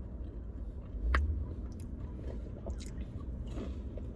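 A person chewing and biting fast food close to the microphone, with wet mouth clicks, and a louder thump about a second in.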